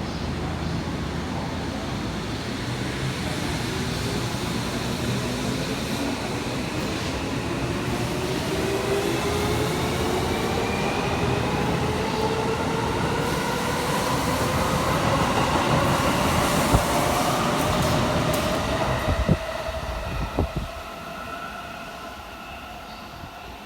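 Tokyo Metro Tozai Line train pulling away and accelerating, its traction-motor whine rising slowly and steadily in pitch over the rumble of the wheels. A few sharp knocks come near the end, and then the sound falls away.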